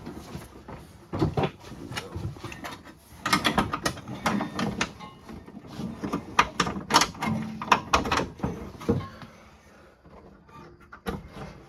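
Irregular metal clicks and knocks as hood pins and cotter pins are fitted on a snowmobile's hood, with a lull near the end.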